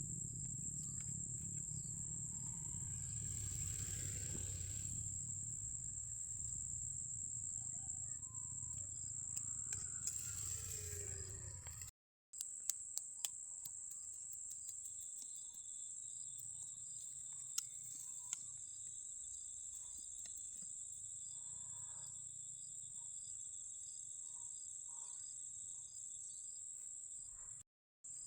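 Insects trilling in a steady high-pitched chorus. In the first half there is a low rumble with two brief rustling swishes. Just after a cut about midway come a few sharp clicks.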